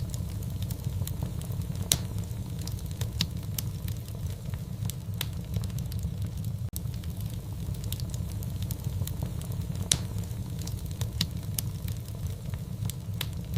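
Wood fire crackling, with frequent sharp pops over a steady low rumble of flame. Two louder pops stand out, one about two seconds in and another about ten seconds in.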